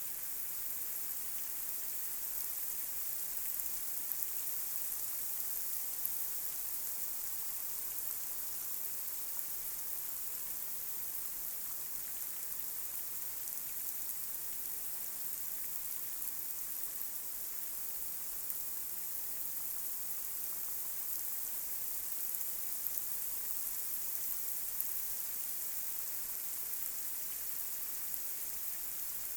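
Light rain falling on a street: a steady high hiss with a few faint drop ticks scattered through it.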